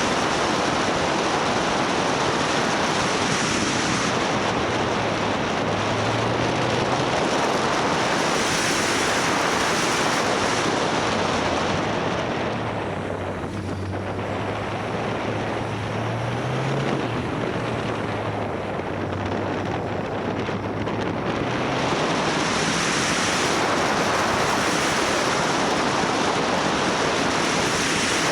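Wind rushing hard over the microphone of a moving motorcycle, with the bike's engine a faint low note underneath, its pitch rising and falling through the middle. The wind noise eases a little about halfway through.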